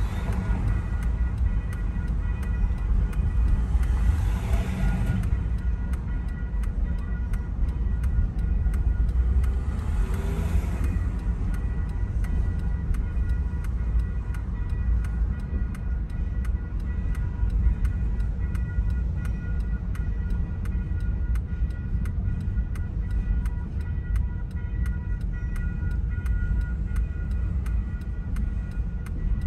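Double-stack container freight train rolling through a grade crossing with a steady low rumble, while the crossing bell dings at an even pace throughout. Two louder swells pass, about four and ten seconds in.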